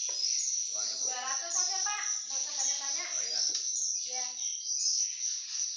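Steady, high-pitched chirring chorus of insects, with indistinct voices talking underneath for part of the time.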